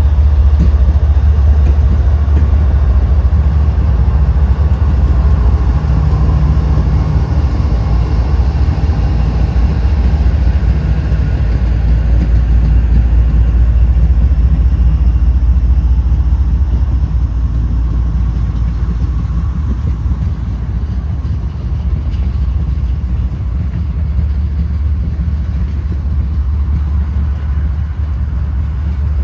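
Diesel freight locomotive running with a steady, heavy low rumble, easing off somewhat past the halfway point.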